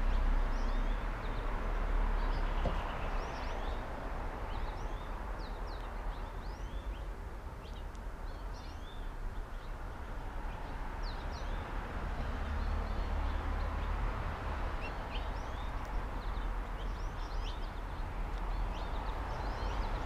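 Small songbirds chirping and calling, many short quick chirps scattered throughout, over a steady low rumble.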